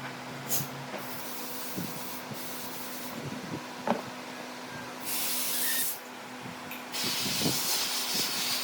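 Compressed air hissing in several sharp on-off bursts, the longest about two seconds, over a steady low hum, with a single knock about four seconds in.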